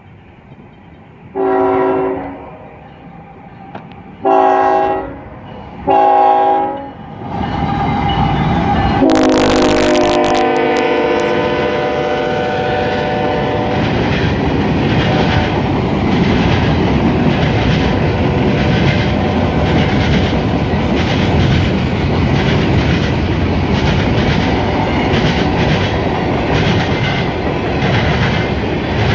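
CSX freight locomotive's multi-chime air horn sounding three blasts of about a second each as the train approaches. A long blast of several seconds follows, dropping in pitch as the locomotive passes. The steady rumble and clickety-clack of freight cars, gondolas and tank cars, then rolls past.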